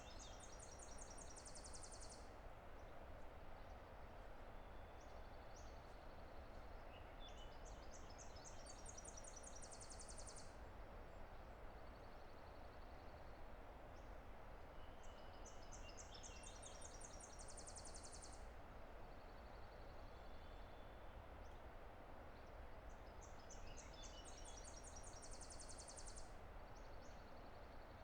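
Steady distant roar of a mountain river, with a songbird singing a short, high song that ends in a fast trill, repeated four times about eight seconds apart.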